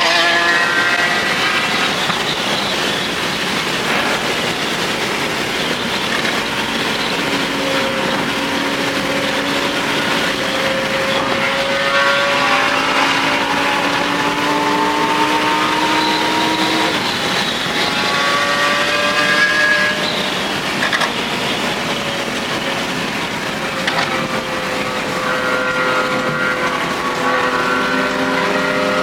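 High-performance sports car engine pulling hard under acceleration, its pitch climbing slowly for several seconds and dropping back at upshifts, over steady road and wind noise.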